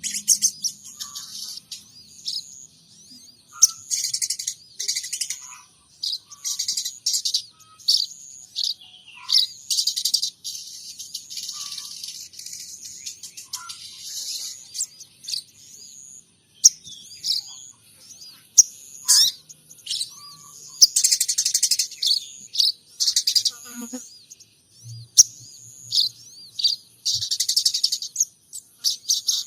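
A sogon trotol songbird singing in irregular bursts of high chirps and fast trills with short pauses between. Its song includes mimicked calls of munias and Eurasian tree sparrows.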